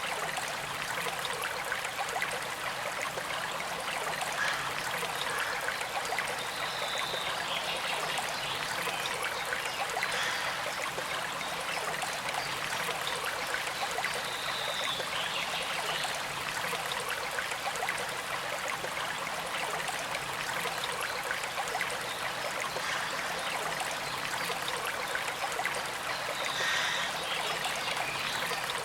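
A small stream flowing and trickling steadily, with a few short higher sounds standing out over the water now and then.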